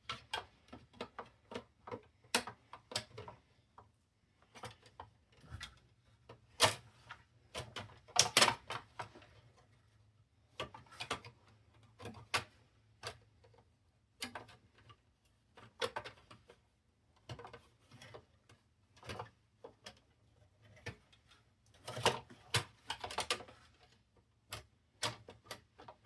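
Irregular clicks, taps and knocks of the plastic and metal parts of a Sony CDP-CX355 300-disc CD changer being handled and fitted back together during reassembly. A few louder knocks come about a third of the way in, and another cluster comes near the end.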